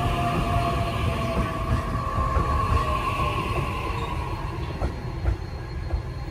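JR East E531 series electric commuter train pulling out and running past, with a steady whine over the rumble of wheels on rail. The sound eases off slightly as the last cars go by.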